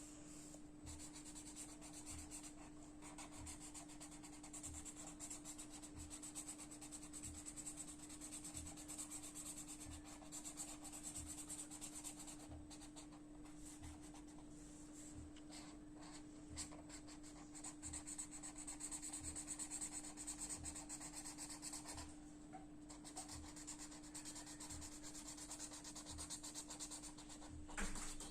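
Colouring medium scratching rapidly back and forth on paper, shading in a drawing in quick continuous strokes, with a steady low hum beneath.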